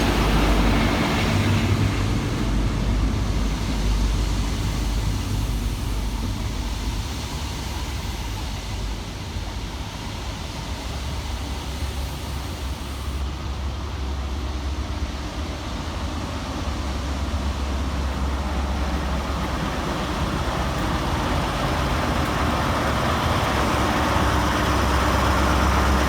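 Diesel engines of a ScotRail Class 43 HST's power cars (MTU V16s) running with a steady low hum. The sound eases off around the middle and builds again near the end.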